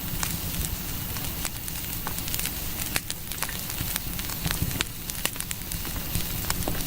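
Fire sound effect: a blaze crackling with frequent, irregular sharp pops over a steady low rumble, a house fire that has been deliberately set.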